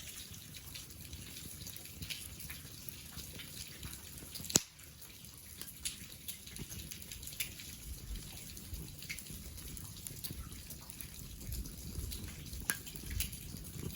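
Rain falling and dripping steadily, with scattered small ticks and one sharp snap about four and a half seconds in.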